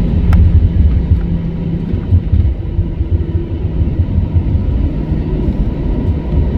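Cabin noise inside an Airbus A321 during the takeoff roll: a loud, uneven deep rumble from the engines and the wheels on the runway, with a faint steady engine tone above it.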